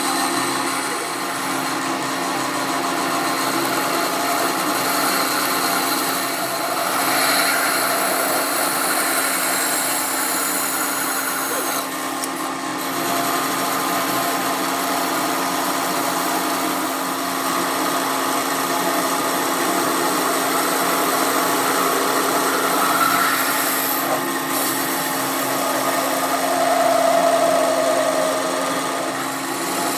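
A workshop power tool or machine running steadily, with a constant hum under a dense, noisy whirr that varies a little in loudness.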